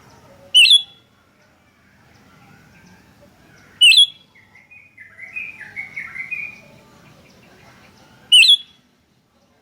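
Sooty-headed bulbuls calling: three loud, short, sharp call notes roughly four seconds apart, with a softer chattering phrase between the second and third.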